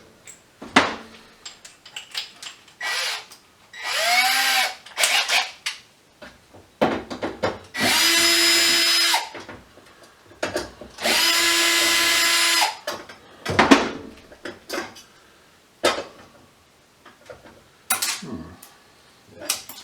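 Power drill running in short bursts, two steady runs of about a second and a half and a shorter one that spins up and winds down, used to take apart a metal light fixture. Knocks and clinks of metal parts being handled between the runs.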